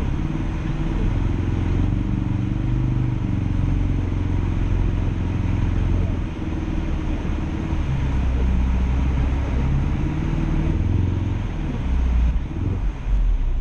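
Ford Focus RS engine heard from inside the cabin, its pitch rising and falling as the throttle is worked to climb through deep snow with the wheels struggling for grip. The revs sag about six seconds in and waver again near the end, power held back by the traction control, which the driver curses.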